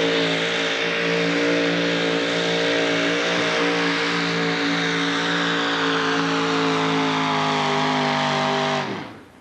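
Modified four-wheel-drive pulling truck's 640-cubic-inch twin-motor Dodge engine running flat out under load, dragging a weight-transfer sled. The engine holds a steady high note whose pitch sags slightly over the last couple of seconds as the truck bogs down, then cuts off suddenly near the end.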